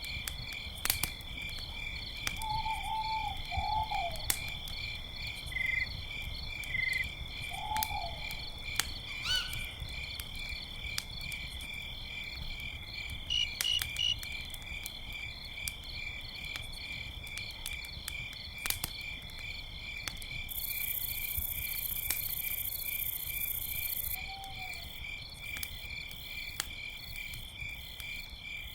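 Crickets chirping steadily in a fast pulsing trill, with the sharp pops and crackles of a campfire now and then. A few short low calls, frog or owl, sound near the start and once near the end, and a brief high hiss rises for a few seconds past the middle.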